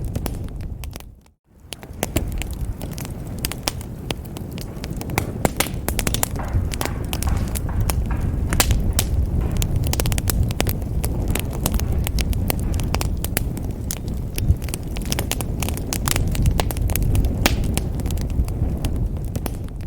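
Wood fire crackling and popping in a fireplace, many sharp snaps over a steady low rumble of flames. About a second in, the sound fades out to silence for a moment and fades back in.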